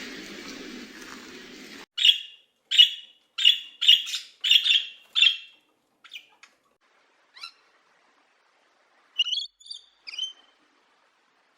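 A bird chirping: a run of six short, sharp calls about two seconds in, then a few sparser, fainter chirps. Before them, a noisy rustling sound cuts off abruptly.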